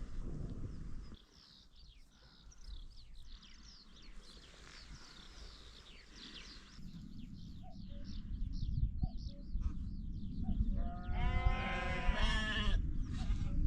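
A sheep gives one long wavering bleat, about two seconds long, near the end, over quick high chirps of small birds and a low wind rumble on the microphone.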